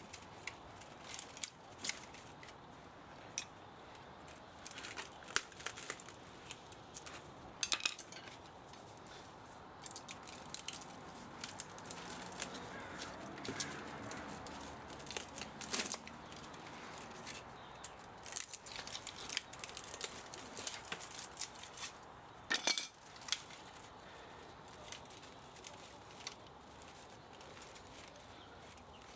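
Hand tools at work on a scrapped electric spa motor: irregular metallic clicks, snips and scrapes, with sharper snaps about eight seconds in and again a little past twenty-two seconds.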